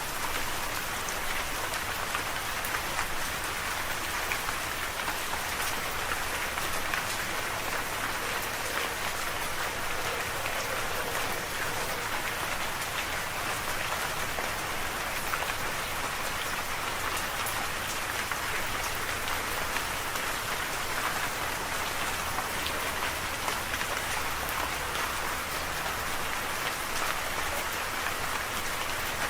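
Steady rain falling, an even hiss of many drops with fine scattered patters, no thunder.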